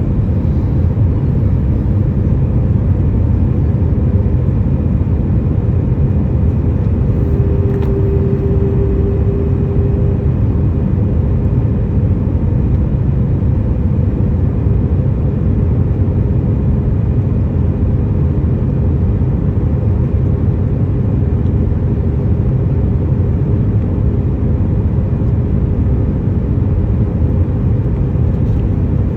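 Steady drone of a Boeing 737 heard from inside the cabin in flight: even, low engine and airflow noise with a faint steady hum, which grows louder for a couple of seconds about eight seconds in.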